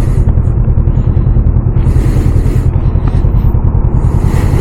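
Motorcycle engine running steadily while riding, with wind hiss on the helmet microphone that rises and falls.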